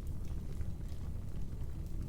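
Wood fire crackling in a fireplace: scattered small pops and snaps over a steady low rumble.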